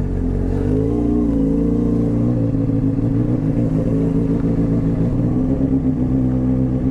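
Motorcycle engine running as the bike is ridden, its pitch rising about a second in and then holding fairly steady.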